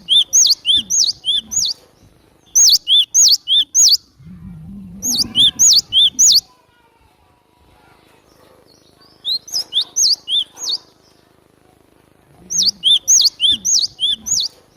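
Glatik batu (cinereous tit) calling in five separate bursts of fast, high, repeated chirping notes, each burst lasting about a second and a half with pauses between. This is a lure recording used to draw in the same species.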